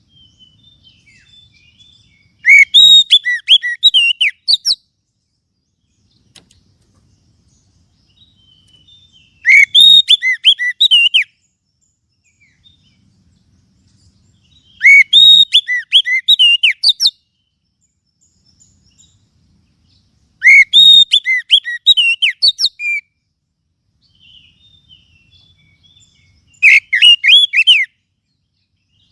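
Oriental magpie-robin (kacer) singing: five loud bursts of rapid, varied whistled notes, each about two seconds long and coming about every six seconds, with faint chirps in between.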